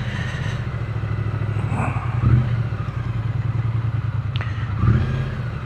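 Triumph Speed Twin 900's parallel-twin engine running at low revs as the bike moves off in traffic, with two brief swells in engine sound, about two seconds in and near the end, and a single sharp click in between.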